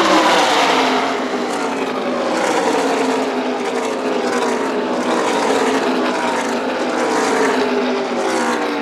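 A pack of NASCAR Truck Series race trucks' V8 engines at full throttle streaming past one after another, the overlapping engine notes dropping in pitch as each truck goes by.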